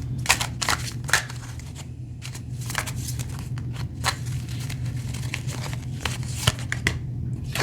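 Tarot cards being shuffled and drawn by hand: a run of irregular soft slaps and clicks of card on card, over a steady low hum.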